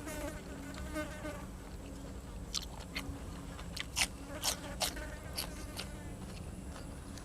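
A flying insect, like a housefly, buzzing close to the microphone for the first second or so, with a wavering pitch. It is followed by a run of crisp crunching bites and chewing, the loudest about four seconds in.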